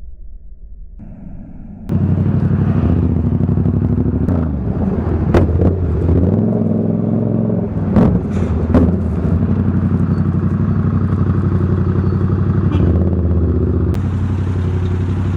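Motorcycle engine running under way, its pitch rising and falling with the throttle, with a few sharp clicks over it. It starts abruptly about two seconds in, after a faint low rumble.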